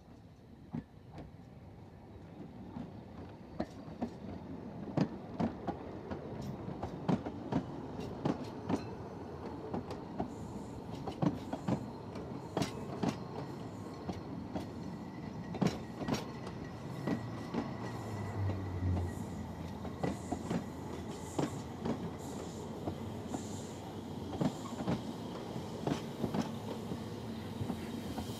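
Narrow-gauge coaches and the double Fairlie steam locomotive Merddin Emrys rolling slowly past at close range, with irregular sharp clicks of the wheels over rail joints and points. The sound grows steadily louder as the locomotive approaches, and a faint high squeal from the wheels on the curve comes in about halfway through.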